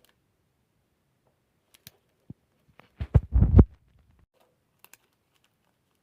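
Hands handling small plastic miniature pieces and their packaging: a few light clicks and taps, then a quick cluster of heavier knocks about three seconds in.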